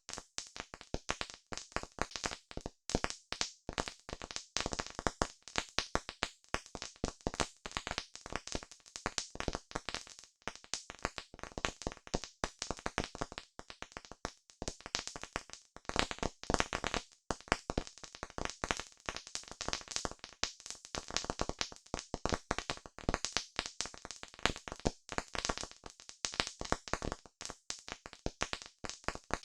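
Campfire crackling: a dense, irregular stream of sharp pops and snaps over a soft hiss of burning wood.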